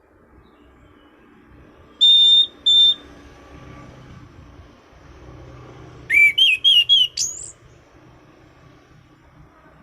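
Orange-banded thrush (anis cendana) singing: two clear, level whistles about two seconds in, then about six seconds in a quick run of five short rising notes ending in one higher rising note.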